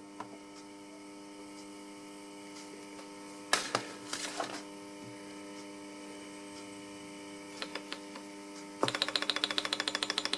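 Faint steady hum with a few knocks and clicks, then about nine seconds in a Davies Charlton model hot air engine starts running with a rapid, even ticking beat that is much louder than the hum.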